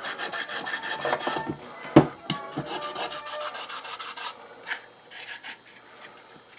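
Rubbing strokes on the wood of an old hand-crank coffee grinder as its residue is scrubbed off. There is a quick run of strokes with a knock about two seconds in, then fewer, fainter strokes.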